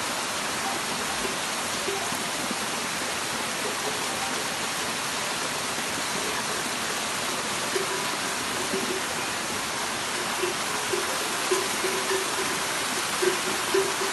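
Waterfall rushing steadily, with a few brief faint tones over it in the second half.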